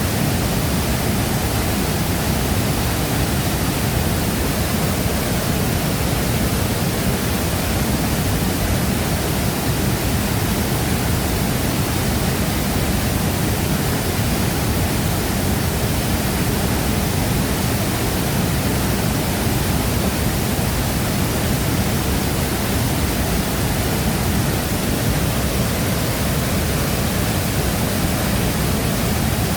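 Shifen Waterfall pouring: a steady, unbroken rush of falling water, heaviest in the low end.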